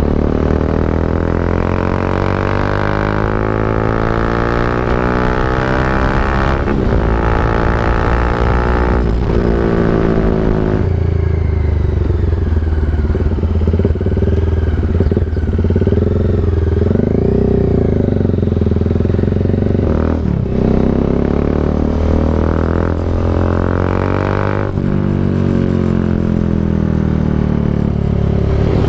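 Bajaj Dominar 400's single-cylinder engine through an SC Project aftermarket exhaust, under way on the road. The revs rise and fall, with several brief dips where the pitch resets as the rider shifts gears.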